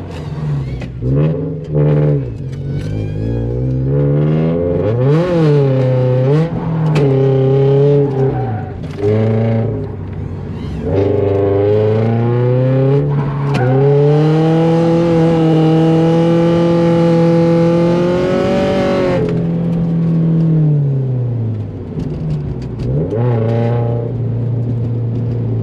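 Drift car engine revving up and down again and again as the car is thrown around, then held high for about five seconds with a hiss over it, and settling to a steady lower note near the end.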